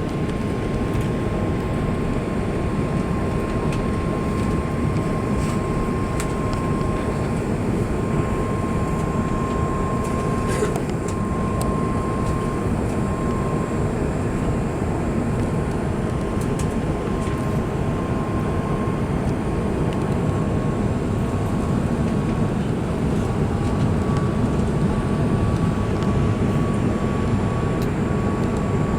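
Cabin noise inside an Airbus A380-800 in flight: a steady rush of airflow and engine noise, with a thin steady whine above it.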